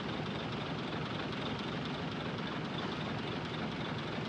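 Heavy diesel earthmoving machinery running steadily, with no distinct knocks or revs.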